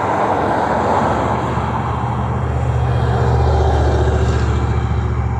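Road traffic passing close by: a steady low rumble of vehicles that swells in the middle and eases toward the end.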